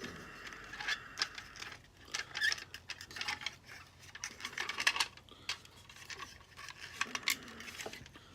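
A small plastic toy accessory and its cardboard box being handled: irregular clicks, taps and rustles.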